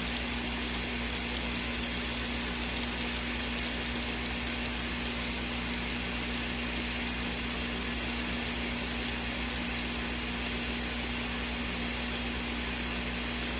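Small electric motor of a portable twin-tub washing machine running with a steady hum and even whir, unchanging throughout.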